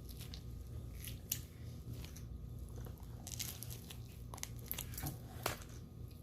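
Close-up chewing of a mouthful of pepperoni and bacon pizza: scattered small crunches and wet mouth clicks over a low steady hum.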